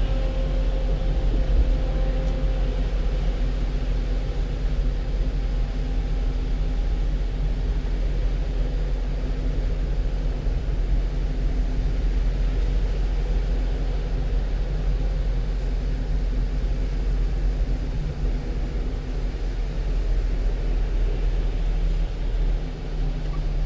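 One-ton truck driving, its engine and road noise heard from inside the cab as a steady low rumble.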